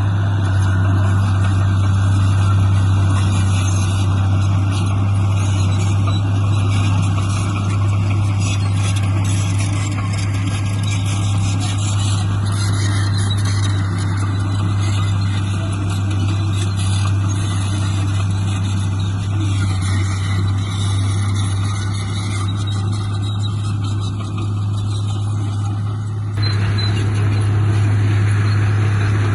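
Heavy construction machine's diesel engine running steadily with a deep, even hum. About 26 seconds in the sound abruptly turns brighter and a little louder.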